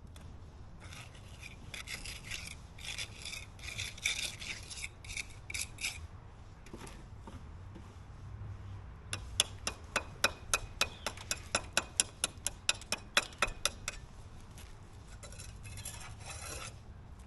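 Hand-tool scraping or brushing strokes on a hard surface. They start irregular, become a fast, even run of about four strokes a second in the middle, and pick up again briefly near the end.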